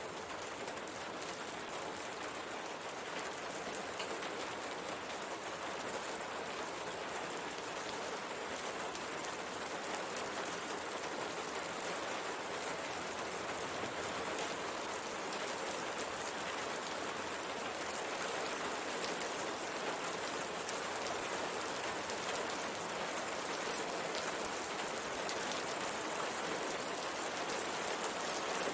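Steady rain falling, with a dense pattering of drops hitting glass.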